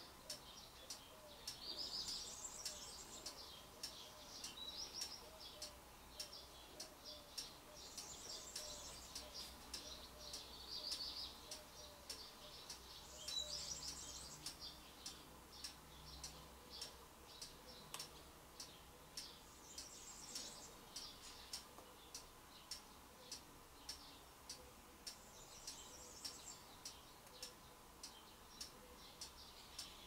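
Faint birdsong in short chirping phrases every five or six seconds, over a steady regular ticking a little more than once a second.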